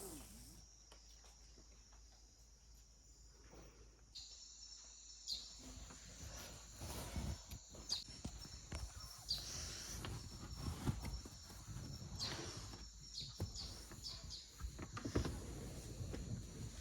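Rainforest insects droning steadily at a high pitch. From about five seconds in, irregular soft knocks and rustles join in, like footsteps or handling.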